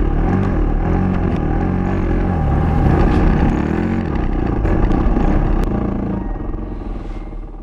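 Motocross dirt bike engine revving up and down repeatedly, its pitch rising and falling about once a second, then fading out near the end.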